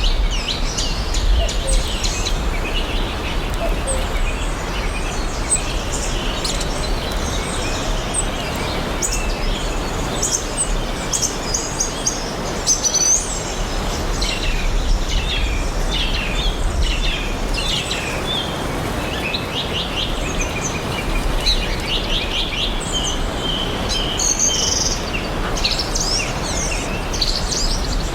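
Several songbirds chirping and singing in forest ambience: many short chirps and trills, some in quick runs, over a steady background hiss.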